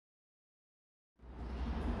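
Dead silence for just over a second at an edit cut, then a low, steady vehicle rumble fades in.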